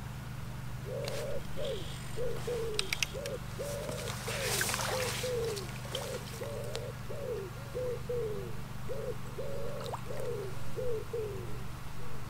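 A bird calling in a long run of short, low hooting notes, about two a second, many of them falling in pitch, over a steady low hum.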